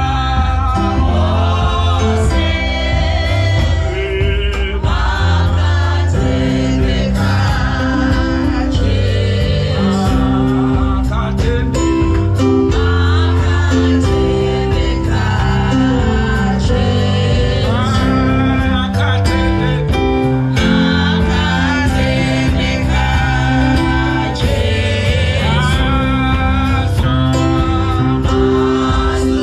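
Gospel song: several voices singing together over a steady bass line and a beat.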